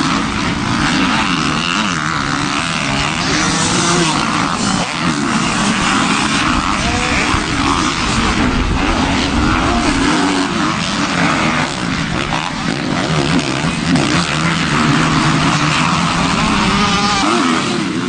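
Motor engines running loudly and steadily, their pitch wavering up and down.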